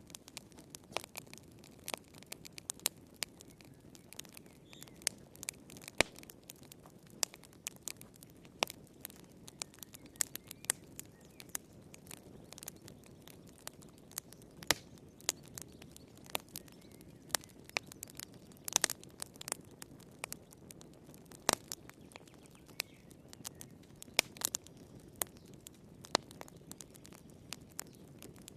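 Wood fire crackling in a fireplace: irregular sharp pops and snaps over a soft low hiss.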